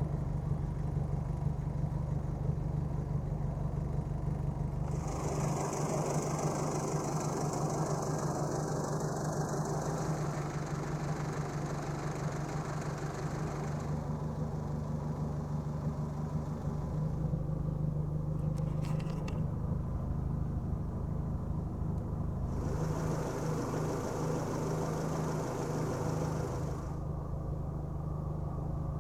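Nissan March K11's four-cylinder engine idling steadily after its first start in over a year, following ten years of outdoor storage. A hiss comes in twice for several seconds, and there are a few brief clicks in the middle.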